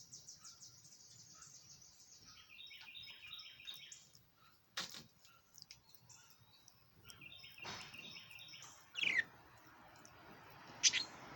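A pet bird chirping: quick runs of high twittering notes, with a few louder sharp calls, one of them a falling whistle about nine seconds in.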